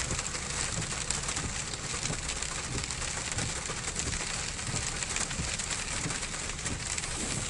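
Rain falling on a pickup truck's roof and windshield, heard from inside the cab as a steady hiss of fine ticks. A low engine hum runs underneath.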